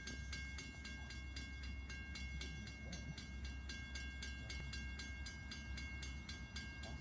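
Low, steady rumble of an approaching diesel-hauled freight train, not yet in view. Over it, an even, rapid ringing of about five strikes a second.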